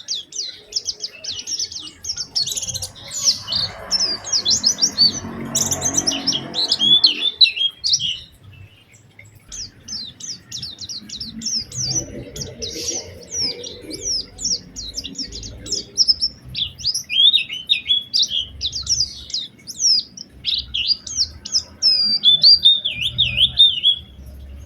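White-eye (pleci) singing a fast, continuous song of rapid high chirps and trills, with a short break about eight seconds in. A low background rumble rises and fades beneath it twice.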